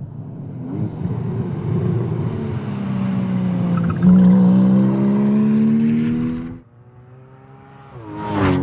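Porsche Cayman S's 3.4-litre flat-six accelerating hard, its pitch rising steadily, then cutting off sharply about six and a half seconds in. Near the end a car sweeps past close by, its pitch dropping quickly.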